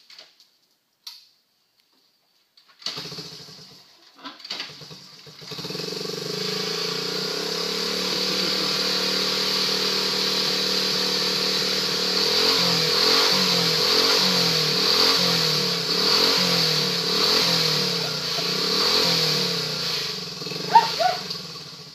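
1969 Honda Trail 90's small single-cylinder four-stroke engine coming to life after a few seconds of sputtering, then running steadily, with the revs rising and falling in the second half. It is the first start after about 20 years of storage, with a freshly cleaned carburetor.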